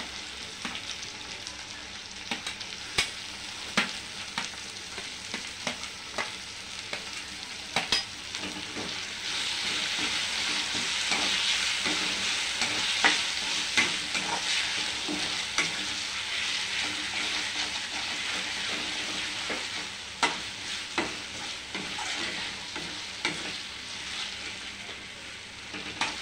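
Chopped tomatoes sizzling in hot oil in a kadai, being sautéed with onions and ginger-garlic paste, while a steel spoon stirs and scrapes, clicking and tapping against the pan. The sizzle grows louder about nine seconds in and eases again near the end.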